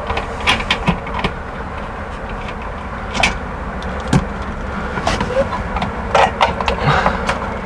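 Scattered small clicks and clinks of a hand tool working the fasteners on the metal cover of an RV water heater's wiring box, over a steady low mechanical hum.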